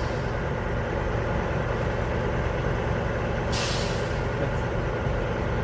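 Semi truck's air brakes letting off one short, sharp hiss about three and a half seconds in, over a steady low engine rumble.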